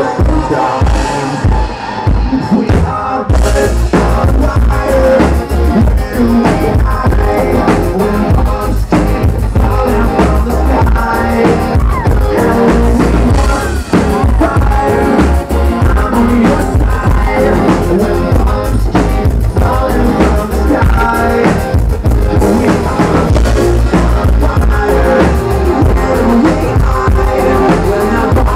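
Rock song with a drum kit and guitar; the full band comes in with a steady beat about three seconds in.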